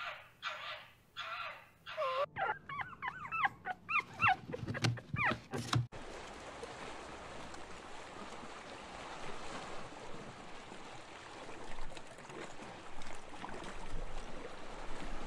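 A red fox whining with high calls that bend up and down, quickening about two seconds in into a run of short yips. About six seconds in it cuts off abruptly to a steady, even hiss of water.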